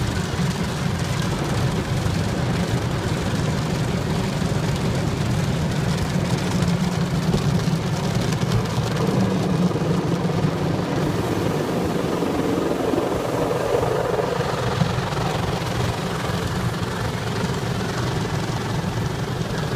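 Automatic car wash running over a car: a steady deep rumble under a broad rushing hiss, swelling somewhat midway.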